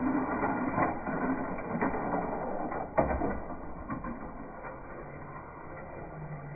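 HO-scale slot cars running on a plastic track, their small electric motors whirring and the cars rattling through the slot, with a sharp knock about three seconds in. The noise is louder in the first half and eases off in the second.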